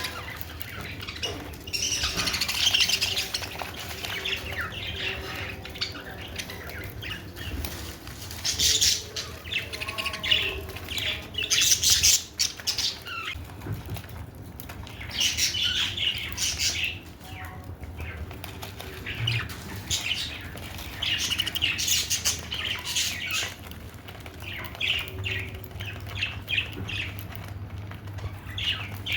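Budgerigars chattering and chirping in repeated warbling bouts, each lasting a second or two, with short pauses between them.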